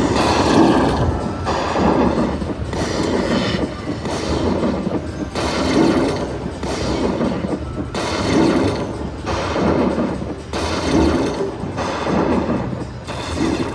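Slot machine game sounds: music-like audio with a repeating swelling whoosh and low thud about every 1.3 seconds.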